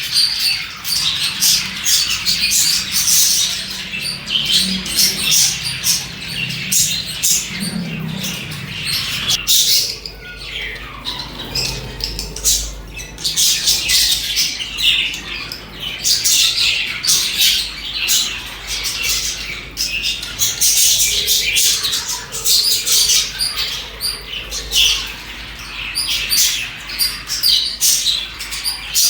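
A flock of budgerigars chattering and chirping, with rapid high warbles and sharp squawks overlapping with no letup.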